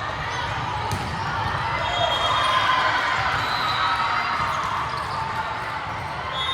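Indoor sports-hall sound during a match: a steady mix of many voices, with several short high squeaks of sneakers on the court floor and a few faint ball knocks.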